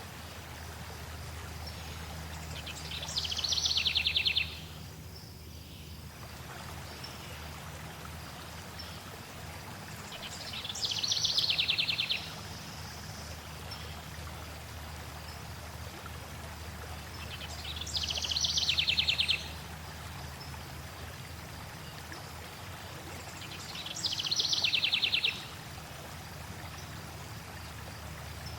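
A songbird sings four short, rapid trilled phrases, one about every seven seconds; each grows louder and then stops abruptly. Under them runs a steady rush of flowing water.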